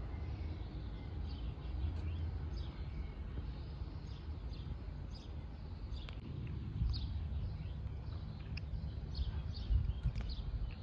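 Small birds chirping again and again, short high calls that fall in pitch, over a low steady rumble.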